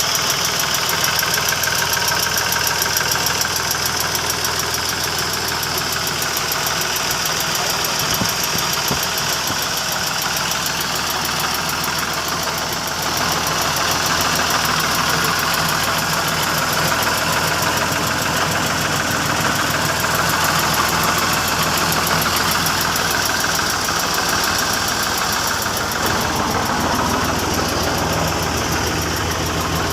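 Tractor engine running steadily, a little louder from about 13 seconds in.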